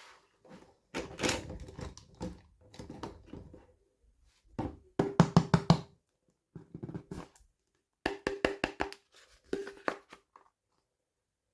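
Small plastic toy pieces and packaging handled by hand: bursts of quick clicks, taps and knocks with short pauses between, the loudest run about five seconds in.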